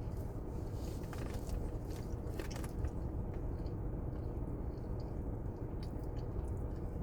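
Close-up chewing of a soft chocolate donut, with small moist crackles and clicks of the mouth, busiest about one to three seconds in and again near the end, over a steady low hum.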